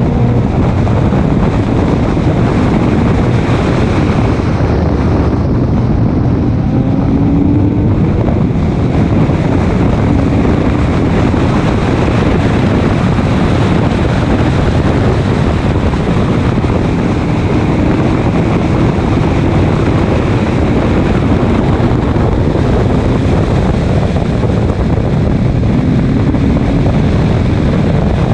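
Race car running at speed: loud, steady engine and wind noise, the engine note rising a few times.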